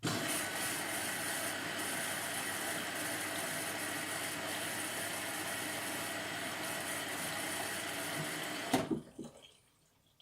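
Indesit MTWC71252WUK washing machine's water inlet valve filling the drum, a steady rush of water. It starts suddenly and cuts off with a knock about nine seconds in as the valve closes.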